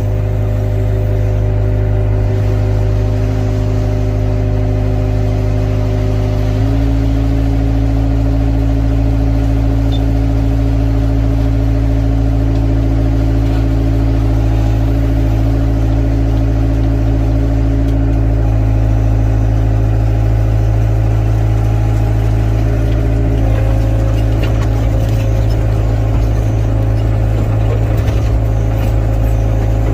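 Excavator's diesel engine running steadily. Its note shifts a few times, first about seven seconds in, as the load on the machine changes.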